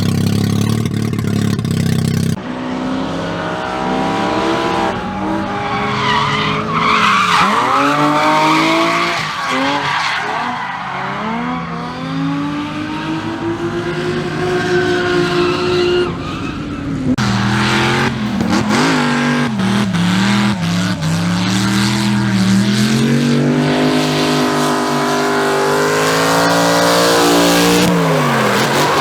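Car engine revving hard, its pitch rising and falling again and again, with tyre squeal as the car slides in a drift.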